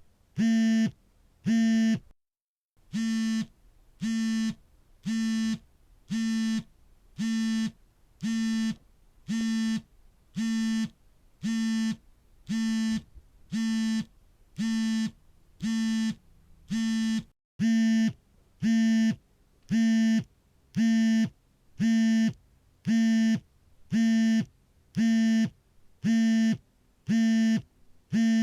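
Smartphone vibrating for an incoming call, buzzing in short, even pulses about three every two seconds. The buzz cuts out completely twice, briefly, about two seconds in and again past the halfway point. It is slightly quieter between the two gaps.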